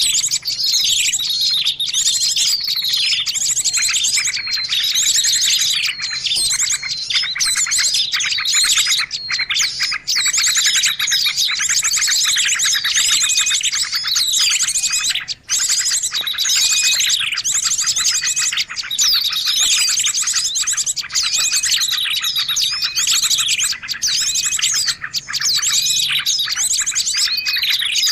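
A dense chorus of small songbirds chirping and trilling without a break, overlapping calls and quick repeated notes: a bird-luring recording (suara pikat) used to draw wild birds to a trap or limed perch.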